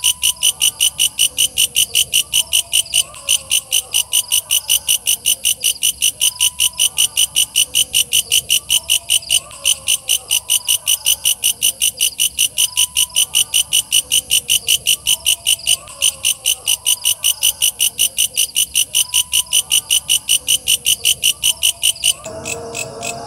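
Walang kecek katydid calling: a loud, fast, steady train of high, rasping pulses, about five a second. Near the end the pulsing breaks off and a different, lower-pitched sound takes over.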